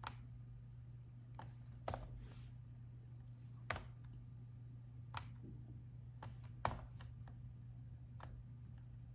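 Laptop keys being pressed sparsely: about ten irregular, separate clicks rather than steady typing, two of them louder than the rest, over a steady low hum.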